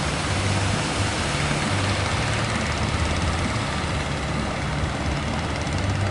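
A fishing boat's engine running steadily with a low, slightly pulsing hum, over a constant hiss of surf and wind.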